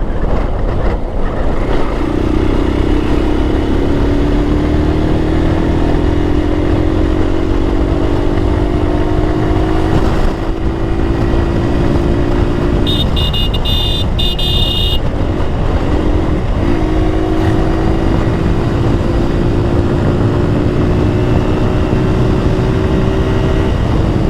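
Motorcycle engine pulling under a long, hard acceleration, its pitch climbing slowly, dropping briefly about halfway, then holding steady, with heavy wind rumble on the camera microphone. A short, high, pulsing tone sounds about halfway through.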